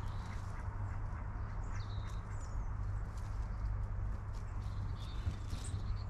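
Small birds giving short high chirps around a garden bird feeder, a few scattered calls over a steady low rumble.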